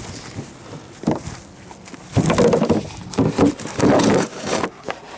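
Irregular scuffs and knocks of handling and footsteps, a few separate bursts, the loudest in the second half; the engine is not running.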